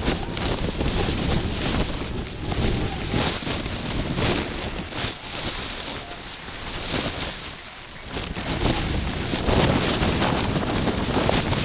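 Wind buffeting an outdoor microphone: a fairly loud, gusty rumble and rush that swells and fades irregularly, easing briefly a little before two-thirds of the way through before rising again.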